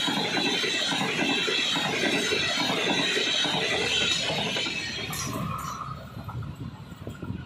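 Express passenger train running past on the line, its wheels rumbling and clattering with a high hiss from the rails, fading away from about five seconds in as the train goes by. A short high whine sounds about five seconds in.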